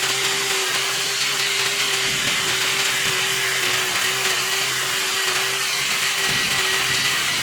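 A motor-driven machine running steadily: a constant hum over an even hiss.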